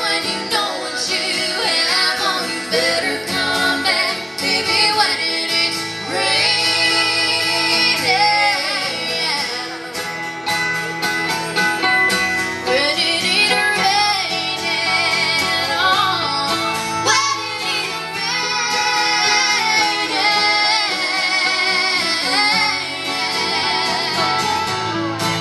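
Country song performed live: female voices singing over acoustic guitar and band accompaniment, the song carrying on to its close.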